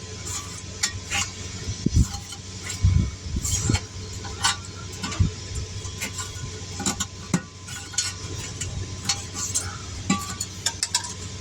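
Tire irons clinking and scraping against a wheel rim as a tire is levered off the rim by hand, with several dull thumps in the first half over a steady low hum.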